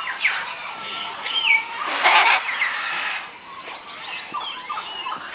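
Parrots calling, a mix of short whistles that slide up and down in pitch, with one loud squawk about two seconds in.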